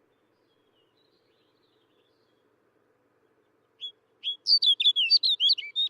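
Snow bunting singing: a faint note or two early, then from nearly four seconds in a short, fast phrase of warbled notes that runs on past the end.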